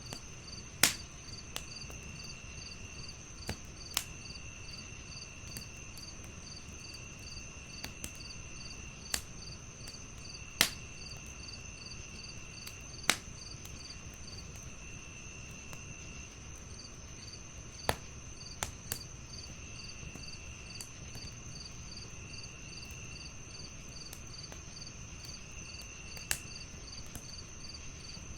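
Crickets chirping steadily in several overlapping calls: a continuous high trill, a rapid pulsed chirp, and a lower call that comes and goes every second or two. A wood fire crackles over them, with sharp pops at irregular moments every few seconds.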